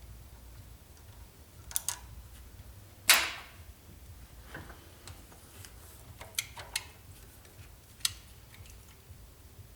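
Scattered metal clicks and clinks as a timing chain and cam sprocket are repositioned by hand, about seven in all. The loudest comes about three seconds in and rings briefly.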